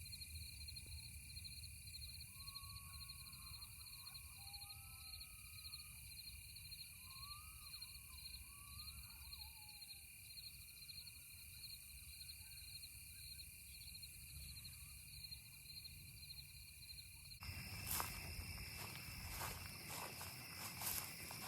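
Faint outdoor evening ambience of insects chirring steadily in high pulsing trills, with a few short rising and falling bird calls in the first half. About three-quarters of the way through, the background changes abruptly and several sharp clicks or knocks are heard.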